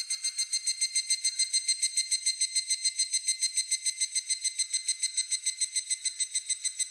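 A higurashi (evening cicada) calling: a rapid, even run of high, ringing pulses, about eight a second, easing off slightly near the end.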